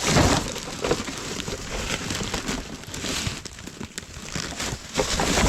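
Rustling and clattering as plastic food containers and plastic bags are rummaged through and moved, a dense run of small clicks and crinkles. It is busiest at the start and again near the end.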